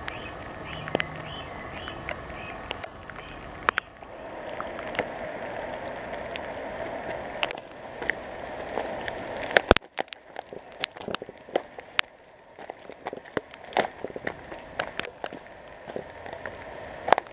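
Rain falling in woodland: a steady hiss that drops away suddenly about ten seconds in, with scattered sharp taps and crackles that come thicker after the drop.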